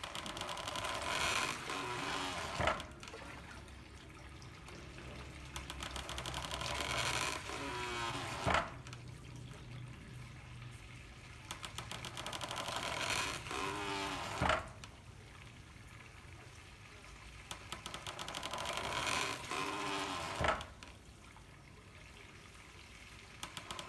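Handmade water-powered corn mill working: water pours and splashes from a bamboo pipe, and the mill gives a single thump about every six seconds, four times in all.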